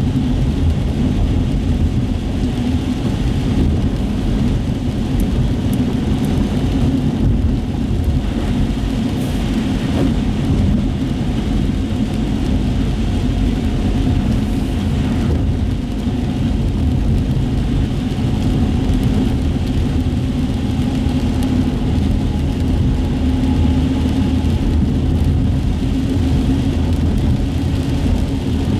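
Car cabin road noise while driving on wet streets: a steady low rumble of engine and tyres with a fainter hiss of tyres on the wet road.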